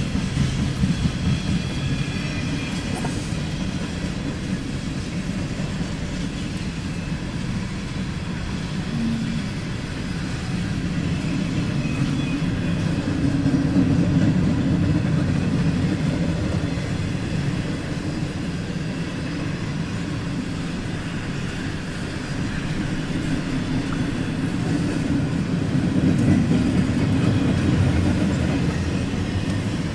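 Freight train cars rolling past: a steady low rumble of steel wheels on rail, swelling louder about halfway through and again near the end.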